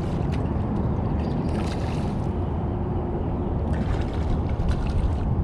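Low, irregular rumble of wind buffeting the microphone, with a few short rustles and clicks of handling about two seconds in and again near the end.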